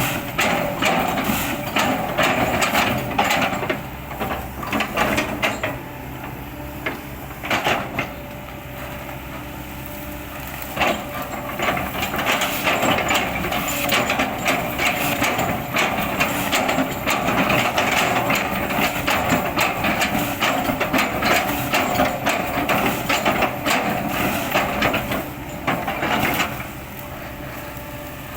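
Kobelco hydraulic excavator's engine running under load while its bucket chops and crushes an oil palm trunk, with many sharp cracks and knocks of splitting wood. The engine settles into quieter spells a few seconds in and again near the end.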